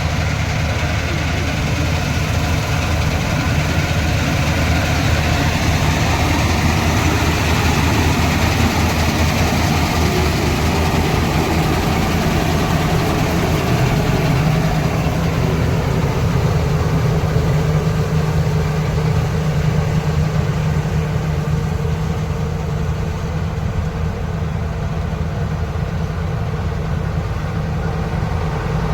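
Kartar 4000 combine harvester running steadily: a continuous low engine hum under a dense machinery noise.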